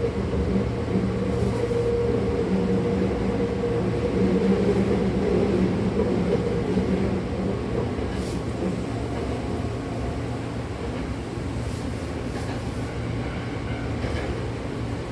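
Hankyu Takarazuka Line electric commuter train running between stations, heard from inside the car: a steady rumble of wheels on rails. A low hum is there in the first half and fades out about halfway.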